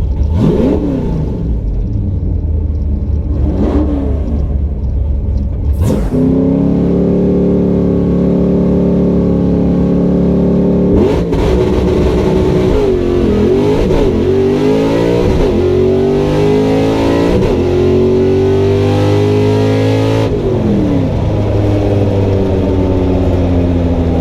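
Drag-racing car engines at the strip: two quick revs, then held at a steady high rev for several seconds. About eleven seconds in they launch and accelerate, the pitch climbing and dropping again through the gear changes until it falls away near the end.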